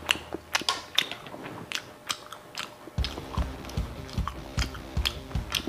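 Close-up mouth sounds of a person chewing a mouthful of longganisa sausage: wet smacks and clicks at an uneven pace. About three seconds in, background music with a steady beat comes in under the chewing.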